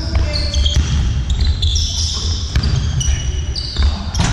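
Sports shoes squeaking over and over on a hall floor during play, short high squeaks one after another, with a few sharp knocks and a constant deep rumble of the hall.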